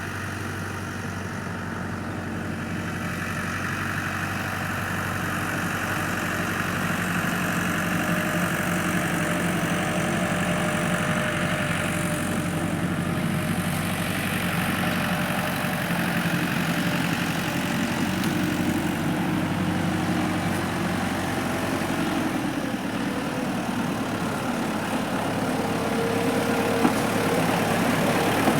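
Tractor engine running steadily at idle, growing a little louder over the first several seconds.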